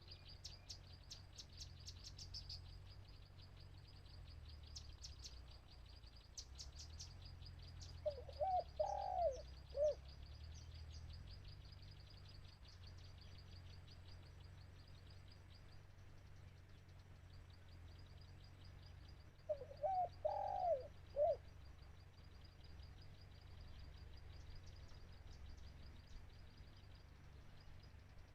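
Spotted dove cooing: two short phrases of several low notes, about eleven seconds apart, over a fast, high, continuous chirring in the background.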